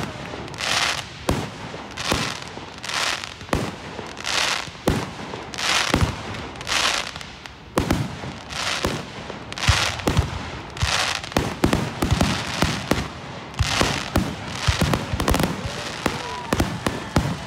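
Aerial fireworks display: a steady run of brief hisses under a second apart, mixed with sharp bangs of bursting shells that come thicker from about ten seconds in.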